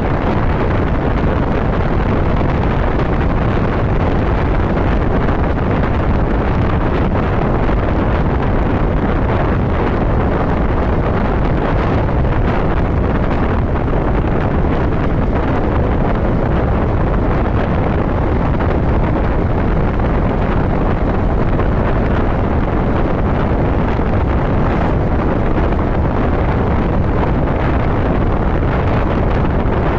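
Steady wind rush on the microphone of a motorcycle riding at road speed, with the rumble of the bike and road under it.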